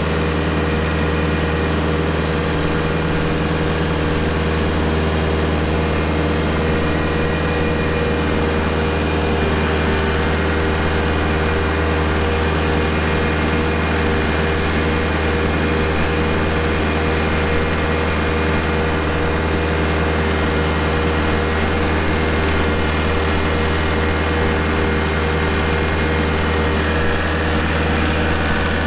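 Kubota L4701 compact tractor's four-cylinder diesel engine running at a steady, unchanging pitch as the tractor drives along.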